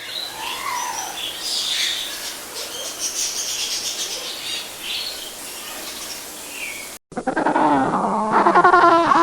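Animal calls: short high chirps over a noisy outdoor background, then, after an abrupt cut near the end, a louder animal's wavering, whining cries that glide up and down in pitch.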